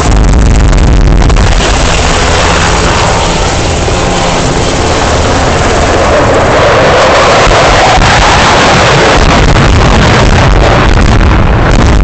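Loud, continuous roar of a military aircraft close by, swelling about halfway through and easing off again, with wind buffeting the microphone.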